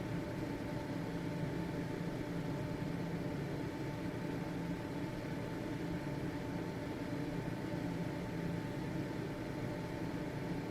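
Household ventilation fan running steadily: an even whirring rush with a faint steady hum and a thin whine from the motor.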